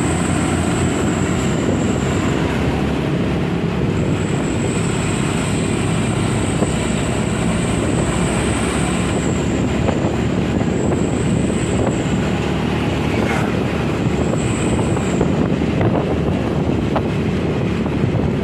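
Truck running steadily, a low rumble, with a thin high whine that comes and goes several times.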